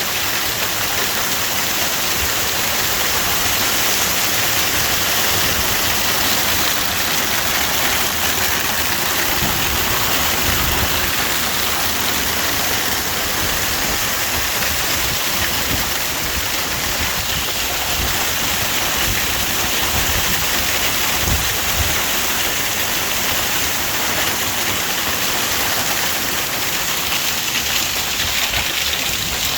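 Hail and heavy rain from a severe hailstorm pelting down in a loud, steady hiss, with a few low thuds mixed in.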